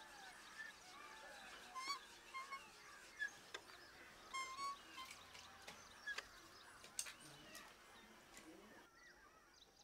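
Faint bird chirps and short trills, with a few scattered soft clicks.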